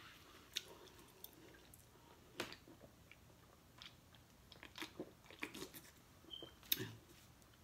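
A person chewing a mouthful of taco close to the microphone: faint, irregular short mouth clicks and snaps, the loudest about two and a half seconds in and again near the end.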